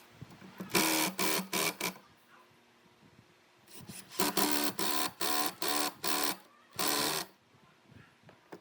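A small electric power tool's motor switched on in short, repeated bursts of a fraction of a second each, about two a second in the middle of the stretch, with brief quiet gaps between.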